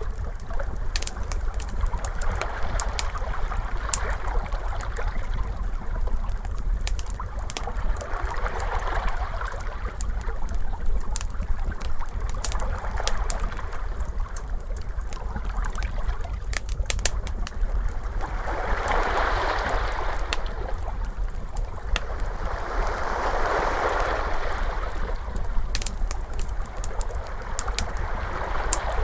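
Crackling wood fire, sharp pops and snaps scattered throughout, over ocean waves washing in and out in swells every few seconds, the two biggest about two-thirds of the way through, with a steady low rumble underneath.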